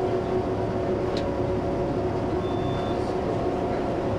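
Gornergrat cog railway's electric rack train running, heard on board: a steady rumble with a level whine from the motors and gearing, and a light click about a second in.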